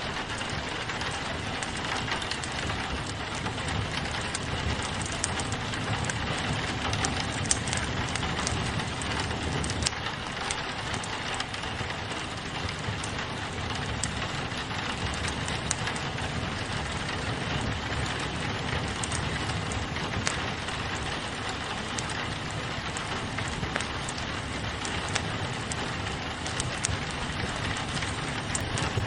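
Steady rain on a window mixed with a crackling wood fire, with small sharp pops and snaps scattered throughout.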